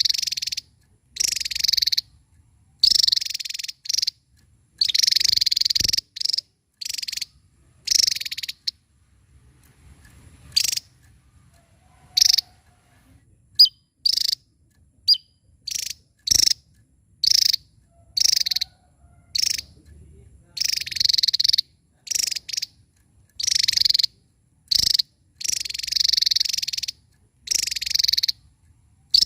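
Javan tesia singing: repeated bursts of rapid, high-pitched song, each up to about a second long, with short pauses between them and a sparser run of single brief notes about halfway through.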